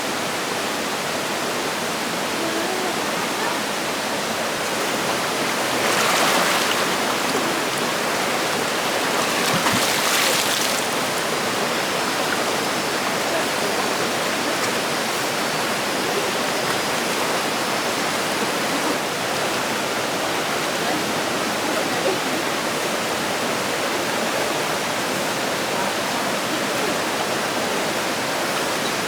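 Steady rushing of flowing water, swelling louder briefly twice, about six and ten seconds in.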